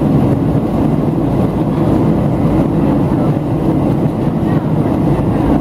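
Steady cabin noise inside a Boeing 737-700 in flight: the low, even rumble of its CFM56 engines and the airflow over the fuselage.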